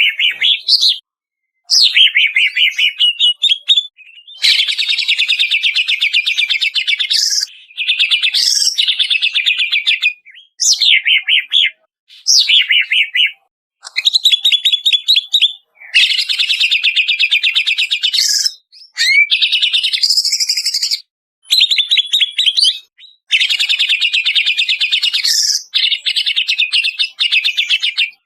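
Greater green leafbird (cucak ijo) singing in repeated phrases of a few seconds each. The phrases are very fast trills with some rising whistled glides, separated by short gaps. They start and stop abruptly, as in an edited training recording.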